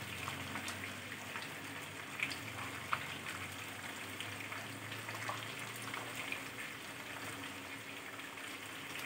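Chicken pieces in a thick, reduced masala sizzling gently in a pan on the stove, a steady low hiss with scattered small pops and crackles.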